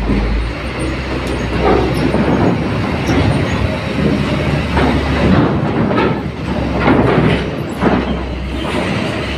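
Heavy steel clanking and grinding at a ferry's loading ramp as the ship rocks in the swell: a run of irregular knocks over a steady rumble.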